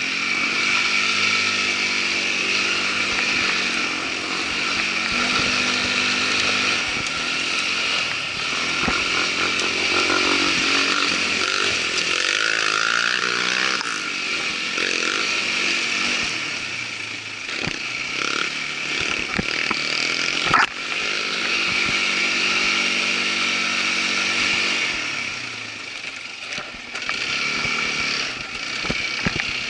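Irbis ATV 200 quad bike's engine running under way, its pitch rising and falling with the throttle, with scattered knocks and one sharp loud knock about twenty seconds in. The engine eases off for a moment near the end.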